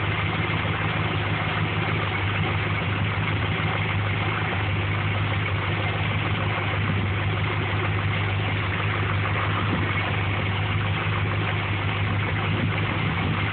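Dodge Ram's stock 318 small-block V8 with a two-barrel carburettor, idling steadily through dual Flowmaster mufflers.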